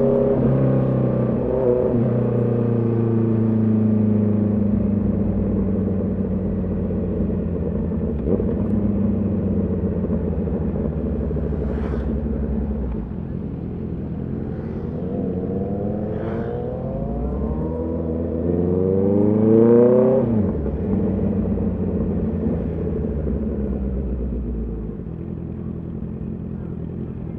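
Honda CB650R's inline-four engine heard from the rider's seat: it winds down off the throttle at first, holds a steady cruise, then revs up in a long rising pull to its loudest about two-thirds of the way in, where the throttle closes and the pitch drops away.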